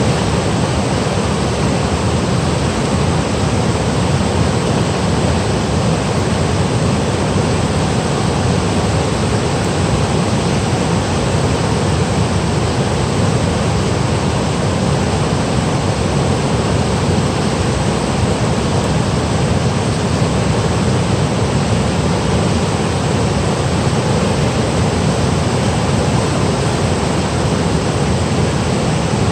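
Valley stream tumbling over rocks in a small waterfall: a loud, steady rush of water that never lets up.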